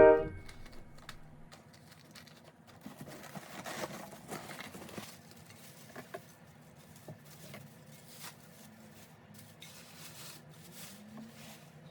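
Quiet handling sounds: scattered soft clicks, taps and rustling, with the tail of a musical chime dying away at the very start.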